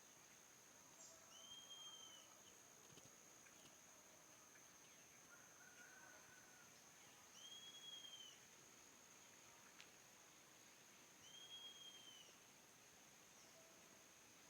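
Faint birdsong in woodland: a short arched call heard three times, a few seconds apart, with a steady high-pitched whine underneath.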